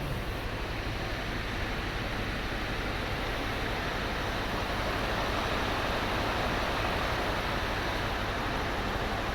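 Scania R560's V8 diesel engine running steadily at idle, a low rumble under a wide hiss that swells slightly about halfway through.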